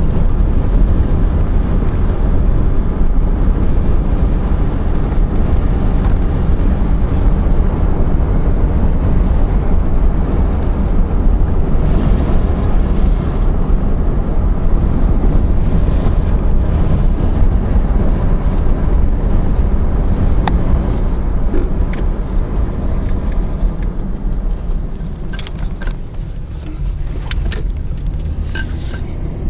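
Car driving along a road, with a steady low rumble of engine and road noise. The rumble eases off near the end, and a few light clicks come through.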